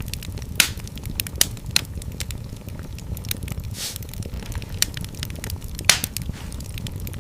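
Wood fire in a fireplace crackling over a steady low rumble of flames, with frequent small snaps. Two sharp, louder pops come about half a second in and about a second before the end, and there is a brief hiss midway.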